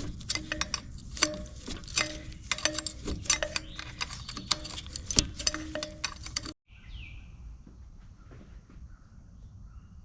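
Rapid metallic clicking and clinking of a wrench working a nut in a cramped spot, with short ringing metal tones. About six and a half seconds in, it cuts off suddenly to a quiet stretch with a single bird chirp.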